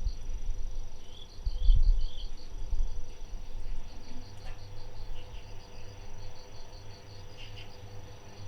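Crickets chirping in an even pulsing rhythm, about five chirps a second, over a low rumble that swells briefly about two seconds in.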